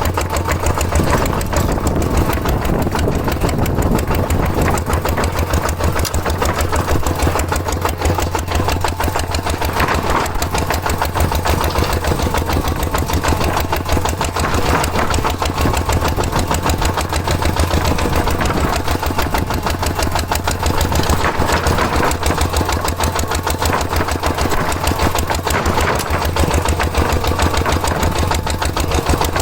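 Engine of a small DIY tractor running steadily, a fast even chugging with a strong low hum.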